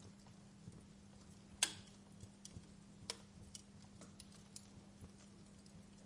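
Wood fire crackling: sparse, irregular pops and snaps, the loudest about one and a half seconds in and another about three seconds in, over a faint steady low hum.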